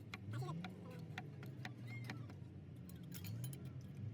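Irregular light metallic clicks and clinks of hand tools and metal parts being handled, over a low hum.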